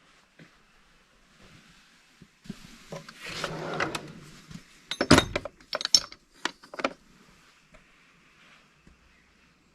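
Handling noise: rubbing or rustling for about two seconds, then a quick run of sharp knocks and clicks.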